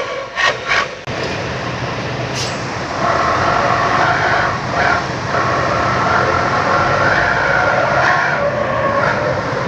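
Truck exhaust fitted with a 'srigala' (wolf) howling muffler, giving a steady horn-like howl of several tones together that comes in about three seconds in and holds. Two sharp knocks sound just before, about half a second in.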